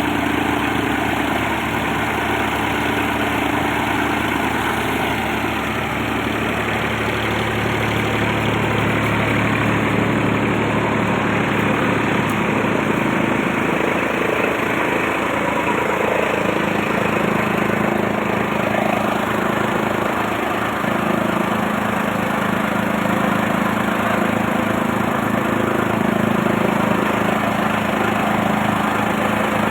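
Tractor engine running steadily while driving a three-blade chaff cutter, with the cutter's whirring mixed in. The low engine note shifts slightly about halfway through.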